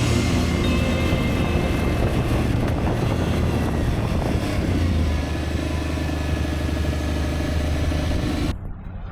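Motorcycle engine running steadily at cruising speed with wind rushing over the on-bike microphone. Near the end the rushing hiss cuts away abruptly, leaving a duller low rumble.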